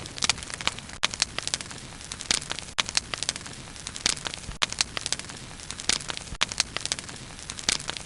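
Wood bonfire crackling: many irregular sharp pops and snaps, several a second, over a steady low hiss of burning.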